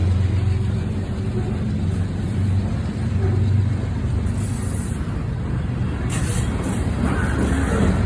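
Train's diesel engine running steadily with a low hum.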